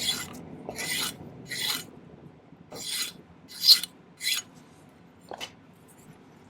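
A hand file rasping on 6-gauge sterling silver half-round wire in about seven short strokes, spaced unevenly about a second apart.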